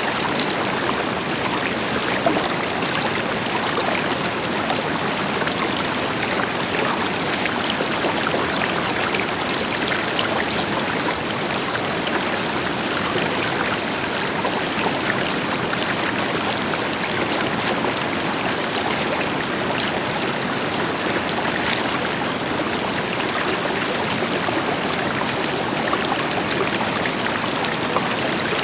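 River water flowing steadily over rocks, with a continuous rush and fine splashing and babbling, and the deeper rush of a waterfall blended in behind it.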